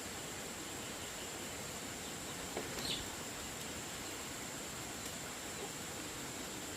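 Insects droning steadily in a single high-pitched tone over faint outdoor background noise, with a few small clicks a little under three seconds in.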